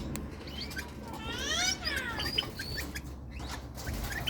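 Small parrots chirping with short high calls, and one longer call that rises and falls in pitch about a second and a half in, over a steady low hum.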